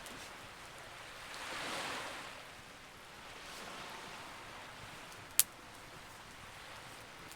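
Campfire ambience: a steady soft hiss of noise that swells and falls away about two seconds in, like a wave washing in, and one sharp pop of burning wood about five seconds in.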